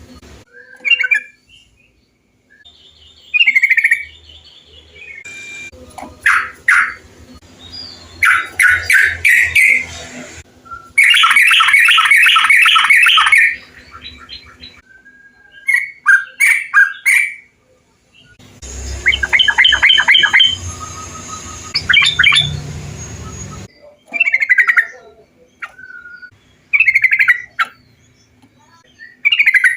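Yellow-vented bulbuls (trucukan) calling: bubbly chattering phrases and short chirps, in spliced recordings that cut in and out every few seconds, with two rapid runs of repeated notes partway through.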